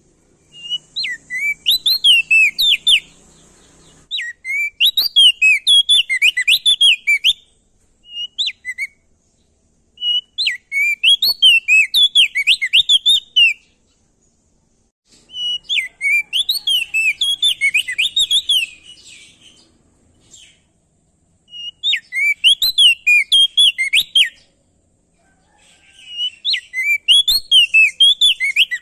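Prenjak daun (opior jambul) songbird singing in repeated bouts of rapid, rising-and-falling whistled notes, each bout lasting two to four seconds with short pauses between, and a thin series of much higher notes running over them.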